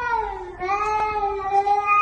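A cat's long, drawn-out meows: one call tails off about half a second in, and a second, slightly lower one starts right after and is held steady.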